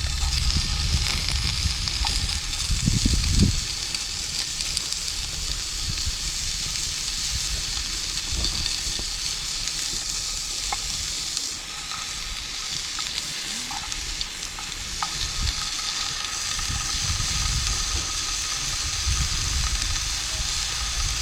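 Campfire burning with a steady sizzling hiss and scattered sharp crackles and pops, with low rumbles near the start and again near the end.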